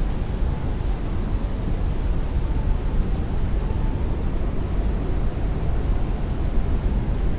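Heavy rain hitting a window while strong wind rushes. It is a steady, dense noise with a deep rumble underneath.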